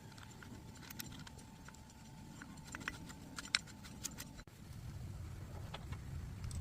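Faint, irregular light clicks and taps over a low steady rumble.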